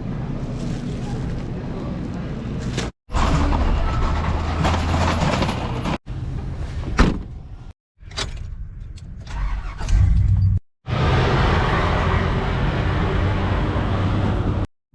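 Vehicle driving, with steady engine and road rumble, across several short clips that cut off abruptly every few seconds.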